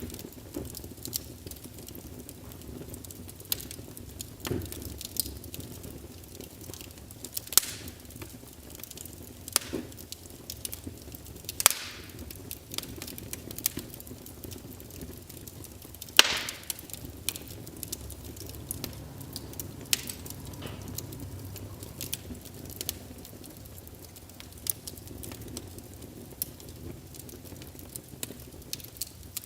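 Small wood fire in a fireplace crackling, with a soft low rumble of flames, frequent small ticks and a few louder pops.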